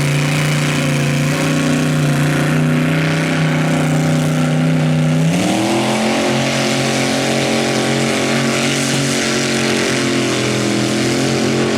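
Mini rod tractor puller's engine running hard at a steady pitch, then revving up sharply about five seconds in and holding the higher revs.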